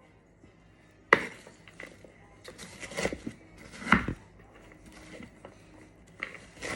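Kitchen knife chopping banana on a cutting board: a handful of sharp knocks at uneven intervals, the loudest about a second in and about four seconds in.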